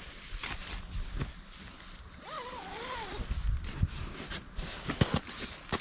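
Sleeping bags rustling as they are handled, with scattered sharp pops and crackles from a campfire. A short wavering tone sounds about two seconds in.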